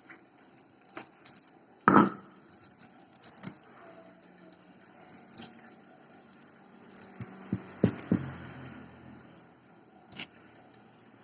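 Close-up eating and food-handling noises: scattered clicks and taps, with a louder knock about two seconds in and a few more knocks just before eight seconds.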